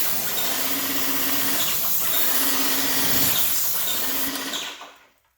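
Electric paint sprayer running at 1500 psi and spraying a jet of rinseless wash solution: a steady hiss over the pump motor's hum, which swells and fades about every two seconds. It cuts off about five seconds in, when the spraying stops.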